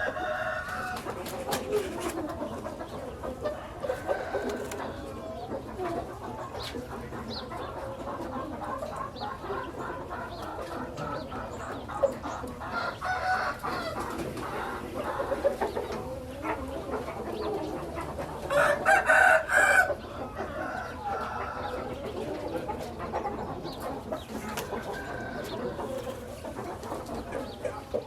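Chickens clucking on and off, with one loud rooster crow lasting about a second, two-thirds of the way through.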